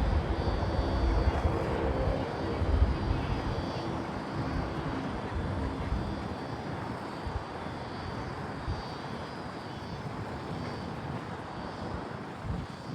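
Departing jet airliner's engines: a deep rumble with a steady droning hum, loudest at first and then fading as the aircraft climbs away.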